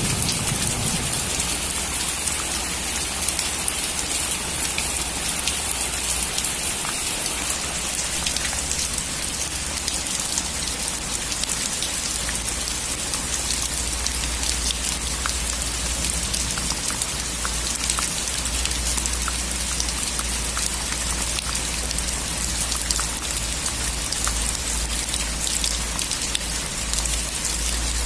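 Steady rain falling, an even hiss with many individual drops ticking through it and a low steady rumble underneath.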